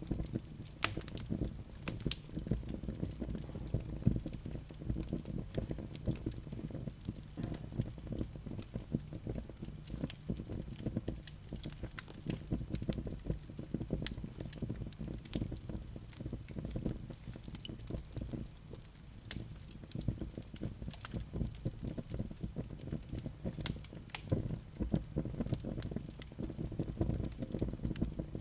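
Wood fire burning in a fireplace, a steady low rumble of flames with many sharp, irregular crackles and pops.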